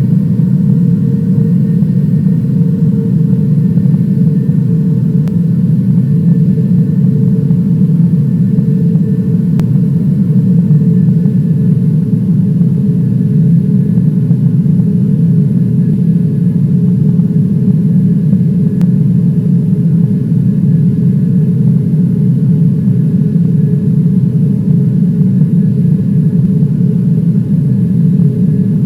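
Airliner cabin noise: a steady, loud, low rush of jet engines and airflow with a constant hum running through it, unchanging throughout.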